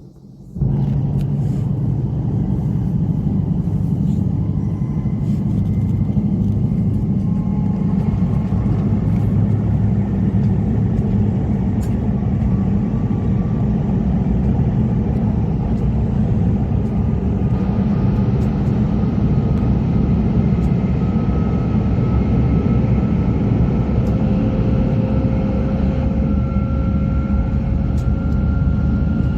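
E5 series Shinkansen running, heard as a steady low rumble with a faint whine slowly rising in pitch. The sound starts suddenly about half a second in.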